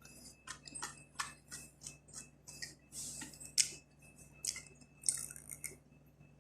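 Close-up eating noises: irregular short, crisp crunches and clicks while chewing crunchy food, about two a second, fading out near the end.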